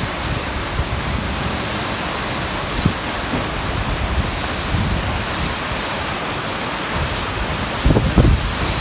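Heavy rain and wind of a summer thunderstorm: a steady rushing downpour, with gusts buffeting the microphone in low rumbles, strongest near the end.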